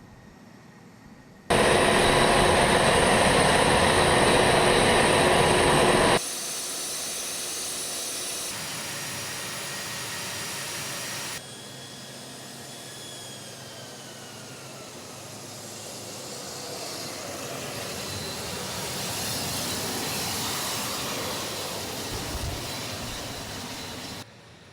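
A-10 Thunderbolt II's TF34 turbofan jet engines running at high power, heard as loud jet noise with a steady whine. The sound jumps abruptly between several clips: loudest for about five seconds near the start, then quieter, with a falling whine in the middle and a slow swell in level toward the end.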